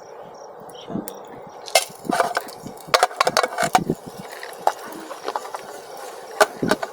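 A kitchen knife tapping and chopping on a wooden cutting board in quick irregular knocks, thickest between about two and four seconds in, then scattered, with a few light clinks.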